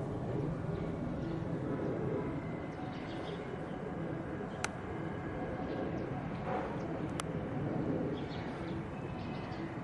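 Outdoor background noise: a steady low rumble with faint bird chirps and distant voices, broken by two sharp clicks about two and a half seconds apart near the middle.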